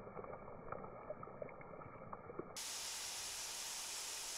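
Eggs, sausage and potatoes frying in a pan: muffled crackling with small pops of fat. About two and a half seconds in, it switches abruptly to a louder, steady sizzling hiss.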